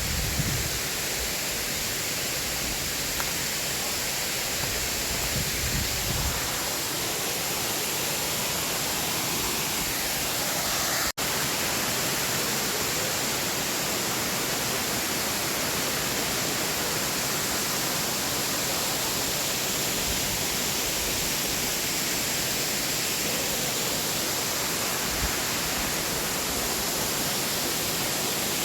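Waterfall cascade of Erawan Falls, water pouring over the limestone tiers in a steady, even rush, broken by a brief cut-out about eleven seconds in.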